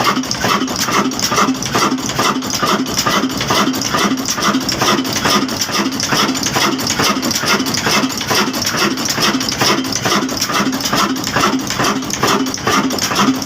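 Old black diesel engine running at a steady speed, with an even rhythm of knocking beats about five a second.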